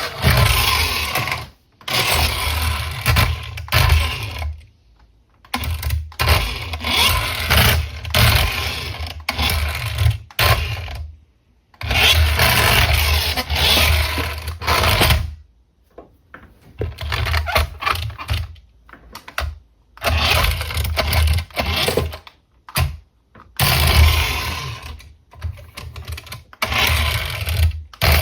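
Toy RC car's small electric motor and drivetrain running in repeated bursts of one to four seconds, stopping and starting about a dozen times.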